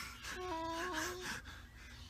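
A young child's voice making one drawn-out vocal sound, held at a nearly level pitch with a small dip near its end, lasting just under a second.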